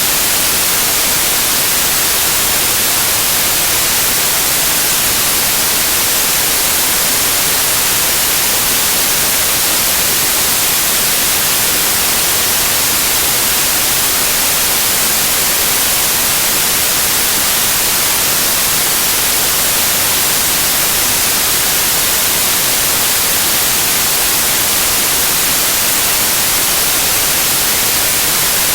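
Loud, steady white noise: an even hiss weighted toward the high end, with no change throughout.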